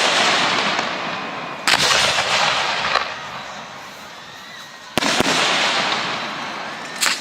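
Professional display fireworks bursting: a sharp bang about every two to three seconds, each followed by a loud crackling hiss that fades away before the next.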